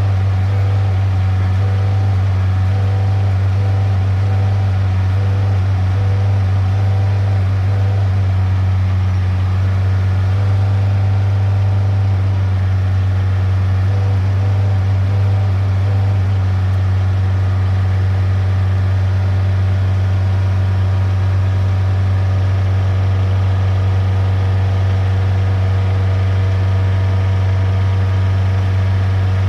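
Diesel engine of a side-loader truck running steadily at a constant speed, a loud, even low hum with no change in pitch.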